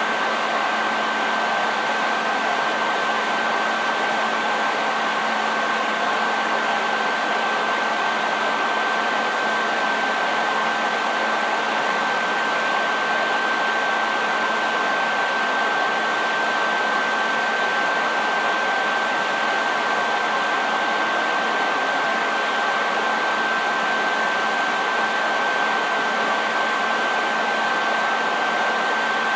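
Hair dryer running steadily on one setting: an even rush of blown air with a constant high whine from the motor and a low hum beneath.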